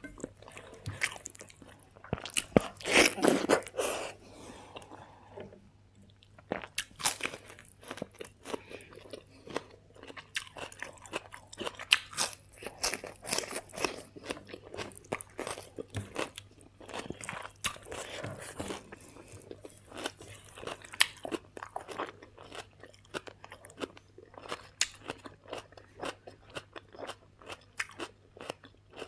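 A person chewing and biting into crunchy food close to the microphone: a run of quick, irregular crunches, pausing briefly about five seconds in before the crunching resumes.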